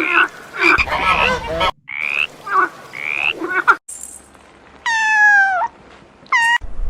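Animal calls: a run of short, repeated croaking calls for about four seconds, then, after a break, two calls that fall in pitch, one long and one short.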